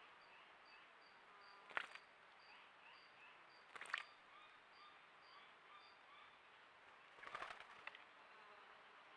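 Faint, steady chirping of small animals: a high note repeated about three times a second over softer, lower chirps. It is broken by sharp clicks or crackles about two, four and seven seconds in.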